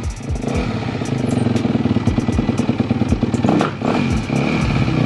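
A 2010 Yamaha YZ250F's 250 cc four-stroke single-cylinder engine runs loud and rapid-firing after being kick-started. A little after three and a half seconds in, the note dips, then climbs again as the throttle is blipped.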